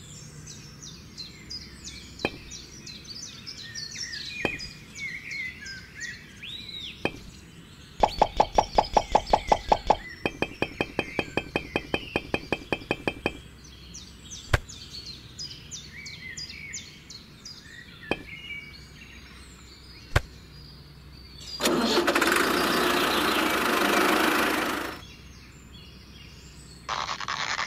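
Birds chirping, with scattered sharp clicks. About eight seconds in comes a two-second run of rapid loud knocks, then a faster pulsing buzz for about three seconds, and later a loud hiss that lasts about three seconds.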